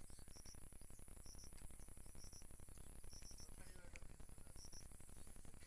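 Forest insects chirping in short pairs and triplets about once a second, over a steady high-pitched insect drone.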